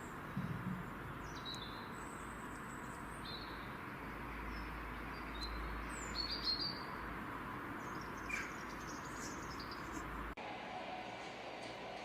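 Birds chirping in short, scattered calls over a steady outdoor hiss. Near the end the background cuts off abruptly and is replaced by a different, quieter one.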